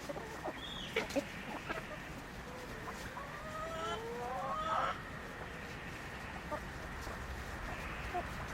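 Chickens clucking, with a drawn-out call that rises in pitch from about three to five seconds in, and a few short clicks about a second in.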